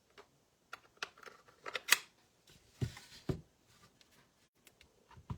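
A rubber stamp and other papercraft supplies being handled on a table: several sharp clicks, the loudest about two seconds in, then two dull thumps about half a second apart near the middle, with a few light ticks after.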